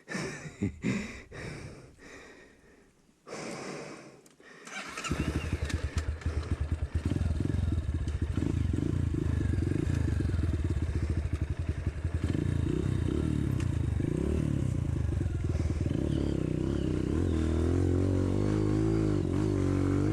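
A few knocks and scrapes, then about five seconds in a trail motorcycle's single-cylinder four-stroke engine starts and keeps running at idle, its pitch wavering a little near the end.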